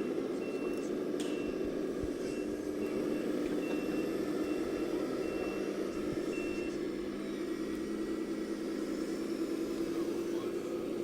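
Scale RC truck's electronic sound module playing a steady engine hum, with a reversing beeper sounding short high beeps at a regular pace through the first half or so, then stopping.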